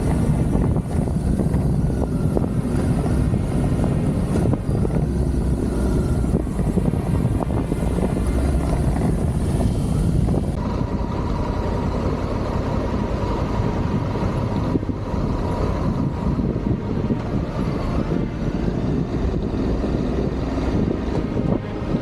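Adventure motorcycle being ridden, its engine running steadily under wind rush. About halfway through, the high hiss drops away and a steady whine comes in.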